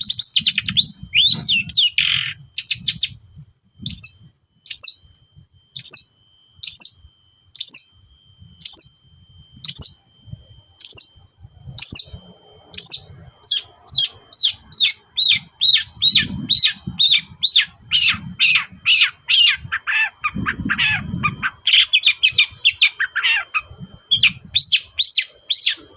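Long-tailed shrike (cendet) calling a loud series of short, sharp high notes, about one a second at first, then quicker, about three a second, from about halfway on.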